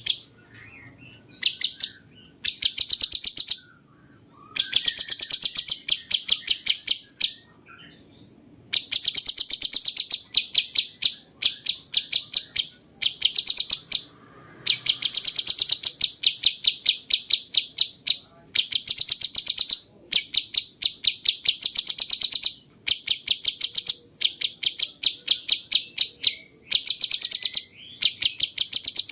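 Cucak cungkok (a bulbul) singing in repeated high-pitched bursts of very fast chattering notes. Each burst lasts one to three seconds, with short pauses between them.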